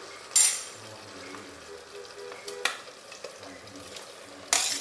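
A spoon stirring fried chicken pieces into thick tomato masala in a hot frying pan, with a brief loud scrape-and-sizzle about half a second in, a click near the middle and another scrape-and-sizzle near the end.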